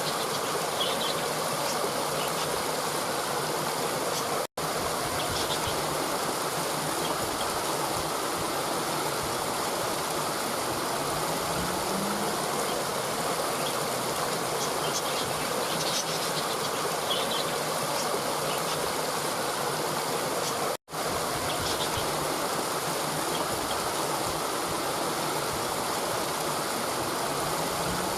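Running water, a steady rush like a stream, with faint high chirps of birds or insects scattered through it. It cuts out for a split second twice.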